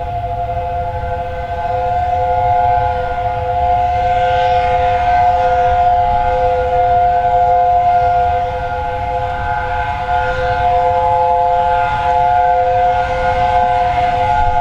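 Steam locomotive whistle held as one long, steady chord of several notes, over a low rumble.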